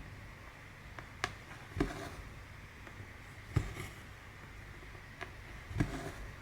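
Cross-stitch needle being worked through 14-count canvas: a handful of soft, irregularly spaced taps and pops as the needle pierces the stretched fabric, some sharp and some dull.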